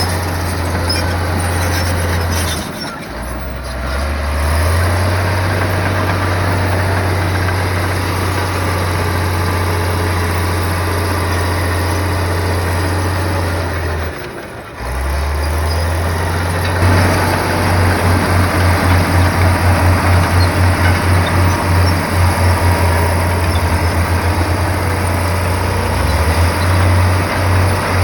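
Komatsu bulldozer's diesel engine running with a deep, heavy drone. It dips briefly twice, about 3 s and 14 s in, and throbs in a steady pulse through the second half.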